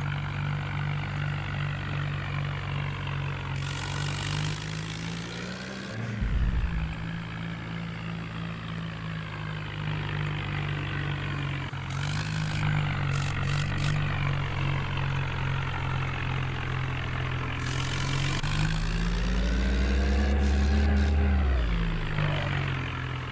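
Tractor engine running steadily, revved up briefly about five seconds in and again for a longer stretch near the end before settling back. Short bursts of hiss come and go.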